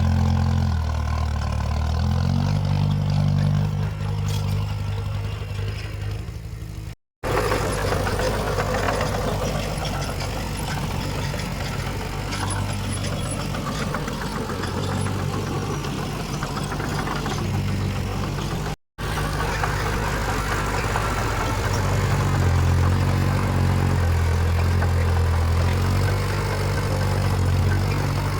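Heavy diesel earthmoving machinery running under load, its deep engine note rising and falling as it revs, with mechanical clatter on top. The sound drops out briefly twice, at the cuts in the footage.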